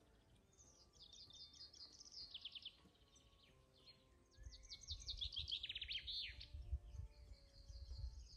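Songbirds singing: two quick trilled phrases of rapid high notes, the first early on and the second about five seconds in. A low rumble comes in about halfway through.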